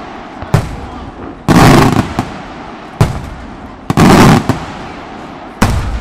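Aerial firework shells and salutes exploding: about six loud reports, some short sharp bangs and two longer bursts of about half a second, each trailing off in echo.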